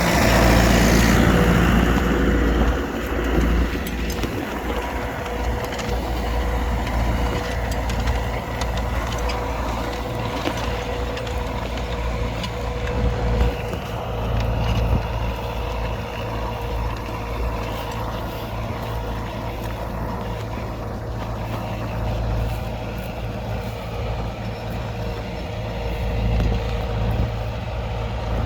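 U650 tractor's four-cylinder diesel engine running steadily under load while pulling a plough, with a constant low drone and a steady higher whine.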